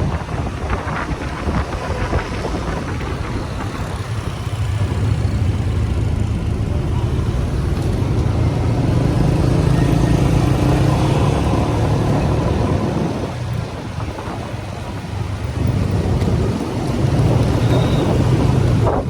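Motorcycle riding in traffic: engine running under wind buffeting the microphone, with a steady low rumble that eases for a couple of seconds about two-thirds of the way through.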